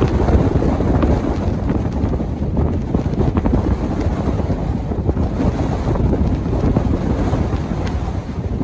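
Strong blizzard wind buffeting the microphone: a loud, continuous rumbling roar that surges and dips with the gusts.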